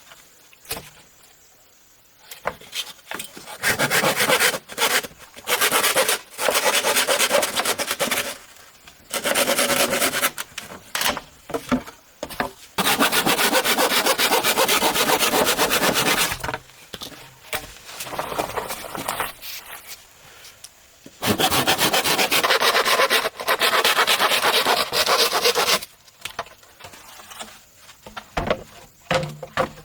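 A hand tool working bamboo by hand, making a dry rasping of rapid strokes in about five bursts of two to four seconds each, with short pauses between them.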